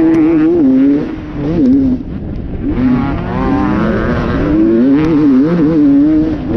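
Enduro dirt bike engine revving up and down as the throttle is worked, easing off and dropping in level about a second in, then picking back up and climbing in pitch from around three seconds.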